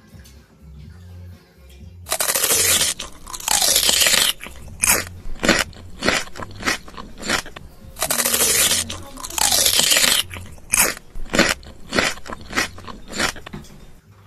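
Loud, close-up crunching and chewing of crunchy fast food. It starts about two seconds in and goes in irregular crunches, and the same run of crunches seems to repeat about six seconds later.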